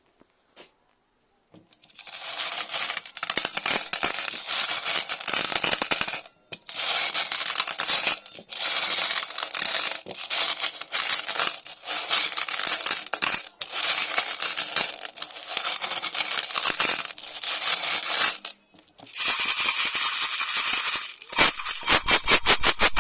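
Dense crackling and scraping full of small clicks, in long spells broken by a few short pauses; near the end it turns into a fast, even ticking.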